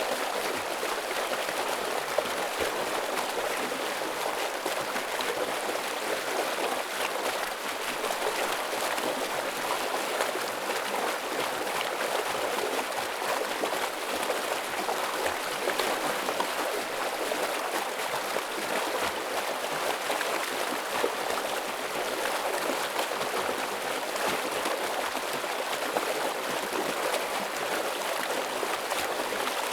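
A forest stream flowing heavily over rocks, a steady rush of water with splashing and trickling.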